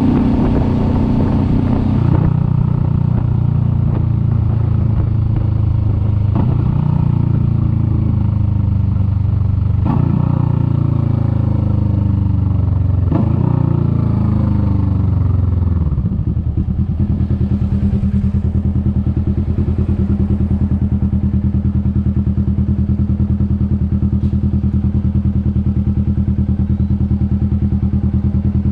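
Kawasaki Vulcan S 650's parallel-twin engine slowing down, the revs falling away and jumping up briefly at each of about four downshifts. About halfway through it settles into a steady, evenly pulsing idle.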